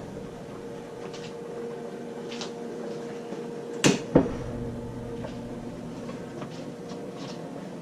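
Kitchen handling as things are moved about on a counter: two sharp knocks close together about four seconds in, with a few faint taps and a steady hum underneath.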